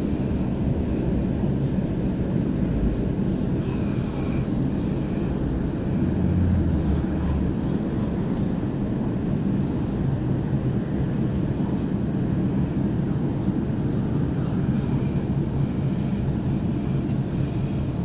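Steady low rumble of a Waratah Series 2 electric suburban train running at speed, heard from inside the passenger car. The low hum swells briefly about six seconds in.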